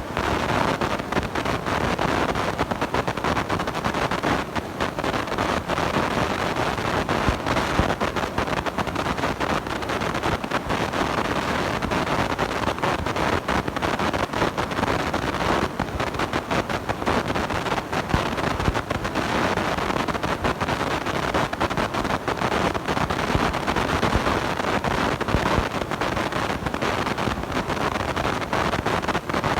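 Steady crackling, distorted rush of noise from a blown-out microphone, dense with fine crackles throughout.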